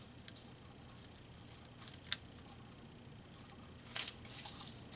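Scissors cutting paper: a few single crisp snips, then a quick run of snipping and paper rustle near the end.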